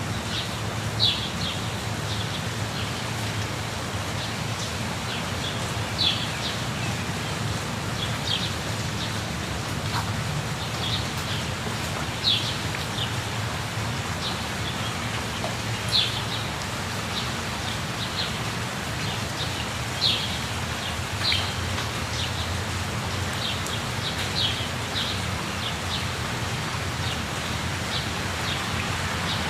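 Steady rush of a waterfall, with short high bird chirps scattered every couple of seconds over it.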